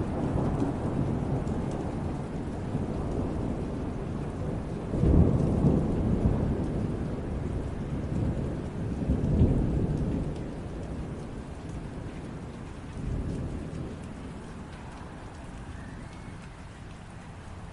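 Steady rain with rolling thunder: a deep rumble that swells about five seconds in and again near ten seconds, with a smaller roll around thirteen seconds, then dies away under the rain.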